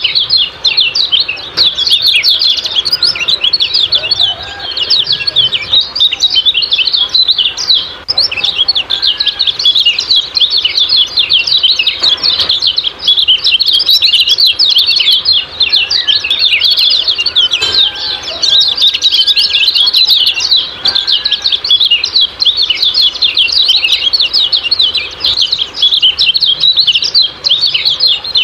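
Kecial kuning (yellow white-eye) giving a rapid, unbroken stream of high, short 'ciak-ciak' chattering calls, with no pause through the whole stretch.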